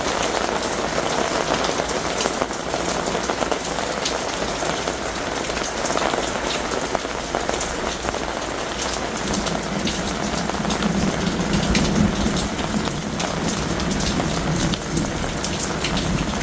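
Heavy rain pouring steadily, with many sharp drops spattering close by. A low rumble comes in about halfway through.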